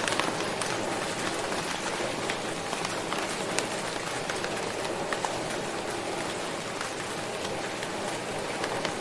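Steady rain falling. It makes an even hiss, and scattered sharp ticks come from single drops striking nearby.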